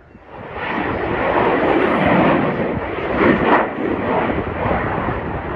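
A fixed-wing aircraft flying past, its engine noise swelling up within the first second and staying loud.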